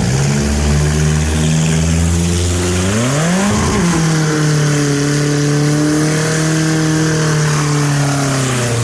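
Kia Spectra's four-cylinder engine on an open exhaust, running steady, then revved sharply to a peak about three and a half seconds in. It settles and is held at high revs for several seconds, easing off near the end.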